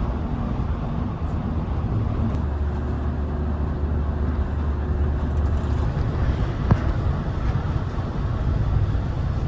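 A motor vehicle running: a steady low engine hum with road rumble, and a single click about two-thirds of the way through.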